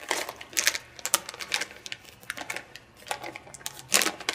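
Plastic candy bar wrapper crinkling and crackling in irregular bursts as it is handled and pulled open.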